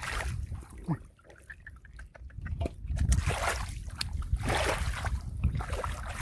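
Splashing and sloshing in shallow muddy water, in irregular bursts with a short lull a second or so in, as catfish are caught by hand in a drained rice field.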